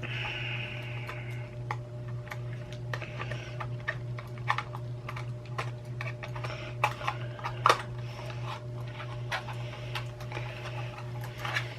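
Irregular small clicks and taps of plastic and metal as a computer mouse is worked on by hand with small tools, with short scraping sounds near the start and near the end, over a steady low hum.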